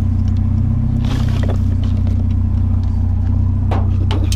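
Truck engine running steadily with a low drone, with a brief rustle about a second in and a few knocks near the end.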